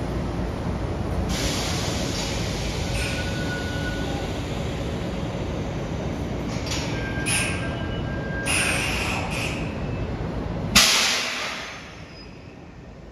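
Kintetsu electric train pulling slowly into a terminal platform, a steady low rumble with short hisses and brief brake squeals as it slows. About eleven seconds in comes a sudden loud hiss of air as it stops, and the rumble dies away.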